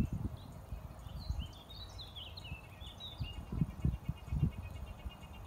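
Birds chirping: a quick run of high, falling notes about a second in, then a rapid, even trill near the end. Irregular low rumbles sound underneath and are loudest near the middle.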